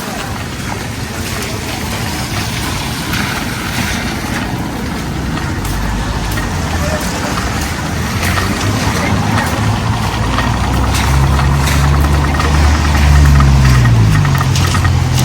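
A motor vehicle's engine approaching and passing close by. Its low hum grows steadily louder to a peak near the end, then falls in pitch as it goes by.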